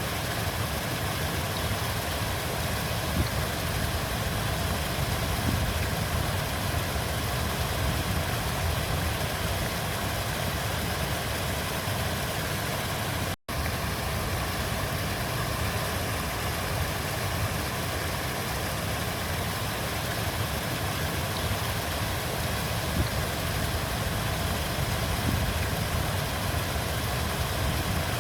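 Flowing river water: a steady, continuous rushing with a heavy low rumble. It cuts out for an instant about halfway through.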